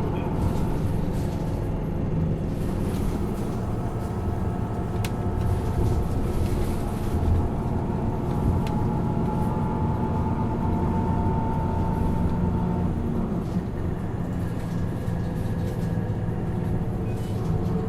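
Isuzu Erga LV290N1 city bus's four-cylinder diesel engine running under way, heard from inside the cabin, with the engine note changing about thirteen seconds in.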